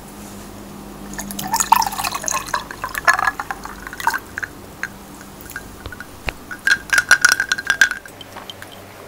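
Aloe drink glugging from a small glass bottle into a glass mug over ice, rising in pitch as the mug fills. About three seconds later, ice cubes clink against the glass in a quick run as the mug is moved.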